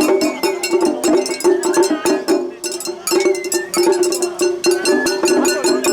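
Japanese festival hayashi music: a bamboo flute melody wavering over rapid drum and small hand-gong strikes.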